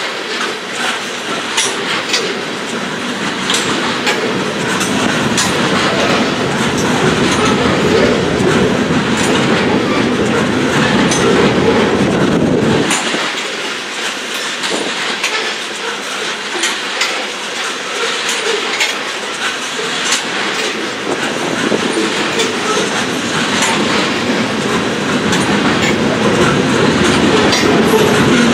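Steel wheels of a slow freight oil train's tank cars rolling past, with irregular clicks as the wheels cross rail joints. The low rumble drops away about halfway through.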